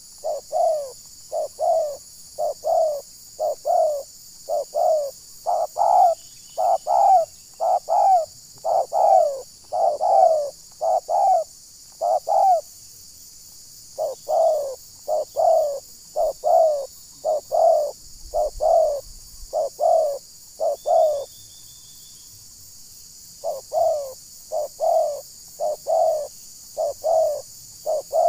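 Spotted dove cooing: a long run of short, low coos, about one and a half a second, broken by two brief pauses.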